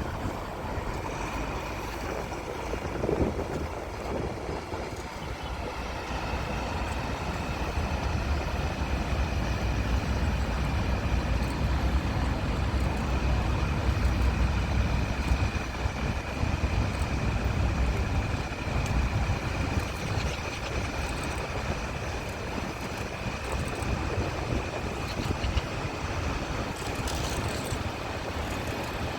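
A rail maintenance vehicle's engine running steadily during shunting, a low rumble that swells a little in the middle, with a thin steady high whine over it.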